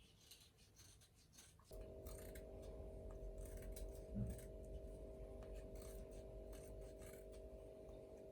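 Light scratching and clicking, joined about two seconds in by a steady hum that starts abruptly.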